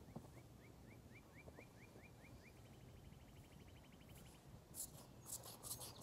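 A faint small bird singing: a run of short rising notes, about four or five a second, then a quicker, higher trill. Near the end come a few light sharp clicks or taps.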